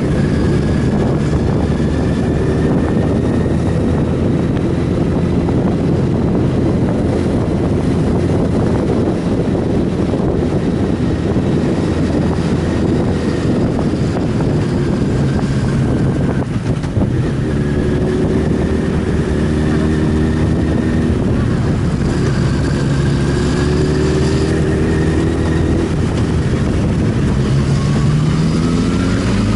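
Sport motorcycle engine running at road speed under a heavy rush of wind noise, its note rising and falling with the throttle. The revs climb near the end as the bike accelerates.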